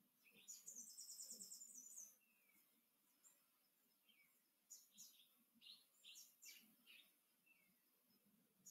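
Faint songbird calling: a rapid high trill lasting about two seconds near the start, then a string of short chirps about halfway through.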